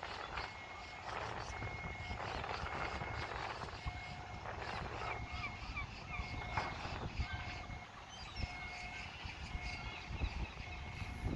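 Seagulls calling in short, scattered cries over a low steady rumble, with an even, repeating high beep running through it.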